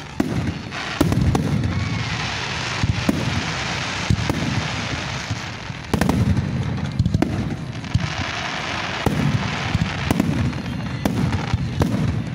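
Aerial firework shells bursting one after another: repeated sharp booms, some close together, with a dense crackling hiss between them.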